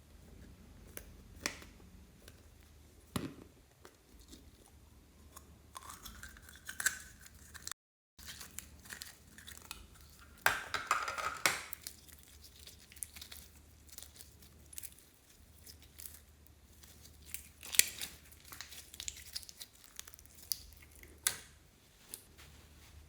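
Hands handling slime and small containers: scattered clicks and taps, a brief rising squeak about six seconds in, and a louder noisy rush lasting about a second near the middle.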